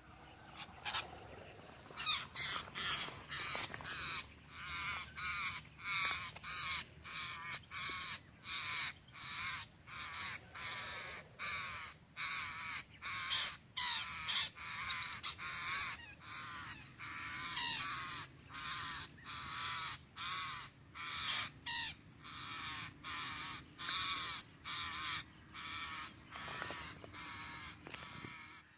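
Long-tailed parakeets (Psittacula longicauda) calling: a long run of short, harsh, wavering squawks, about two a second, starting about two seconds in.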